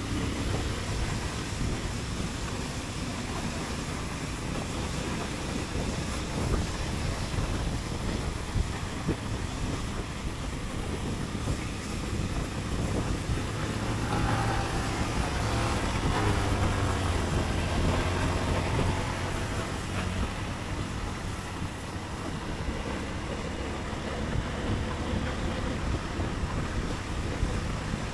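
Motorcycle riding through city streets: engine running under wind noise on the microphone, with a louder pitched engine note for a few seconds in the middle.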